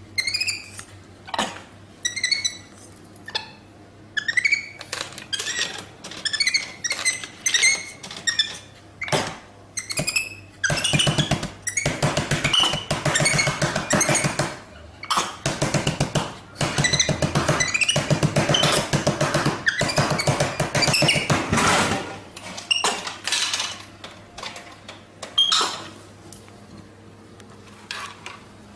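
A monkey squeaking in short, high, rising-and-falling calls. From about ten seconds in, louder rapid chattering runs on for about ten seconds before it thins back to single squeaks.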